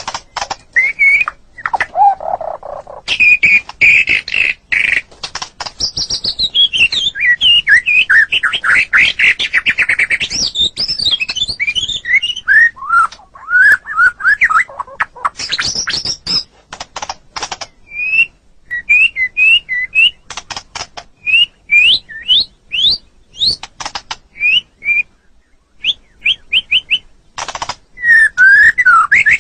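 White-rumped shama (murai batu) singing a varied song of clear whistled phrases, fast trills and sharp clicking notes. From about the middle on, the song turns into short rising whistles spaced with ticks.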